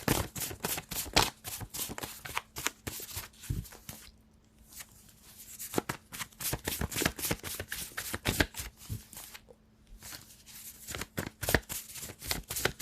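Playing cards shuffled by hand: runs of rapid crisp clicks and flutters, with short pauses about four and ten seconds in. A faint steady hum lies underneath.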